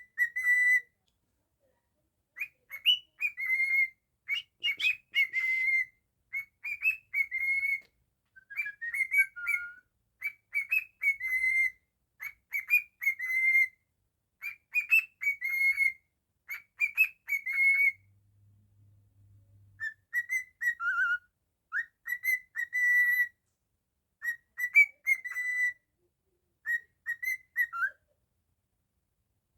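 Cockatiel whistling the same short phrase again and again, each a quick run of chirpy notes ending on a held note, with a pause of about two seconds partway through.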